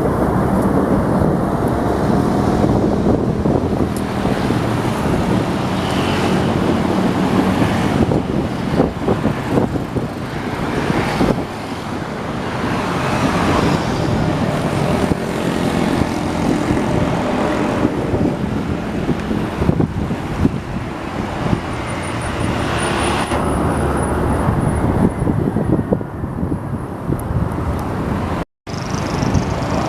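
A train passing close by with a continuous loud rumble that stays steady throughout; the sound cuts out for an instant near the end.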